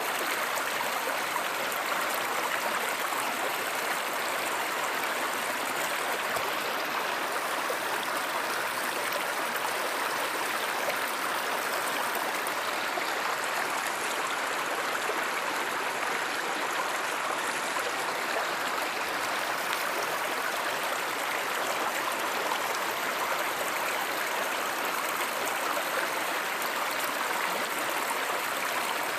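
A river or stream flowing steadily, an even rush of water.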